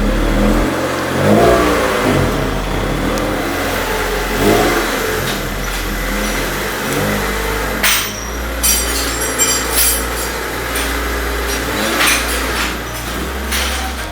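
Honda Civic Ferio engine being revved in several blips, its pitch rising and falling a few times. A burst of sharp clicks or knocks comes about eight to ten seconds in.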